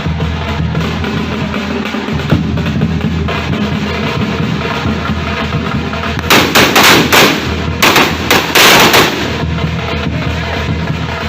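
Music with a steady bass line plays throughout. About six seconds in come two bursts of rapid-fire firecracker bangs, each a second or so long and louder than the music, like a string of crackers going off.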